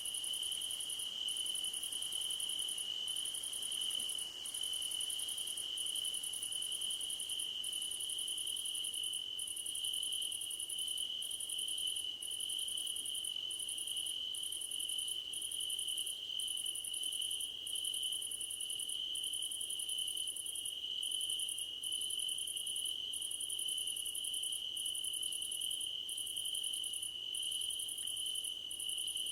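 Crickets singing in a grassy field: one steady, unbroken high trill, over a higher buzzing chorus that pulses in phrases of about a second with short gaps.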